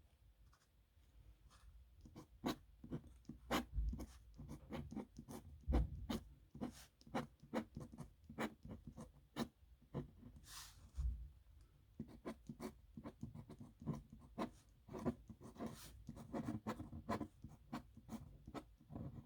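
Metal nib pen scratching across paper in quick, irregular strokes while writing, with a few dull low knocks against the desk along the way.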